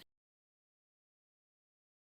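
Digital silence: the audio cuts off and nothing is heard.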